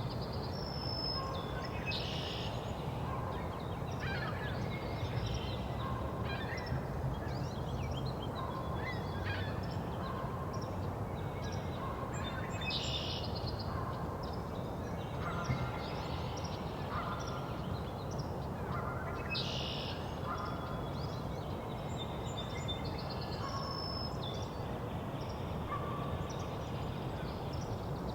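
Spring bird chorus: northern cardinals singing slurred whistled phrases among other songbirds, with Canada geese honking repeatedly, over a steady low rumble.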